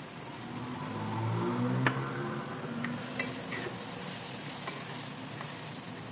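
Chicken strips sizzling in oil in a wok while a wooden spatula stirs them, with a few light clicks of the spatula against the pan. The sizzle turns brighter about halfway through.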